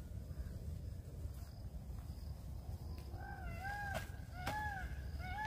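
A bird calling a series of four short arched notes, each rising then falling, starting about three seconds in, over a steady low rumble. A couple of sharp clicks fall among the calls.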